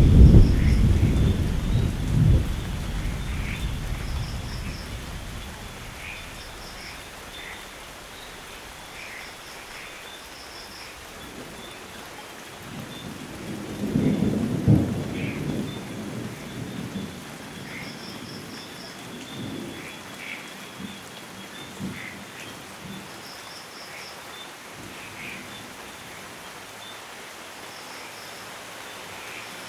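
Steady rainfall with thunder: a loud low rumble at the start that fades over several seconds, and a second rumble about fourteen seconds in. Short high chirps come and go in small groups over the rain.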